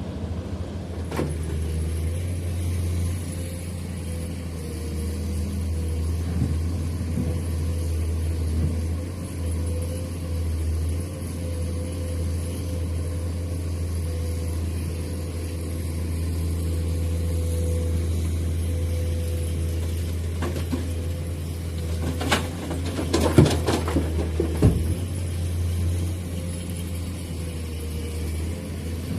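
Heavy construction vehicle's engine running steadily with a low drone. A short burst of knocks and clatter comes about three-quarters of the way through.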